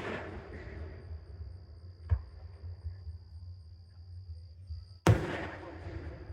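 Aerial fireworks shells bursting: a sharp crack about two seconds in and a loud boom about five seconds in, each trailing off in a fading wash of noise, over the fading tail of a burst that went off just before.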